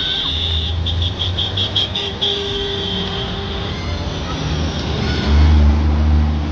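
Tractor engines running as the illuminated tractors pass, a low steady drone that grows louder near the end. Over it sounds a high-pitched steady tone that flutters rapidly, about four pulses a second, for a second or so about a second in.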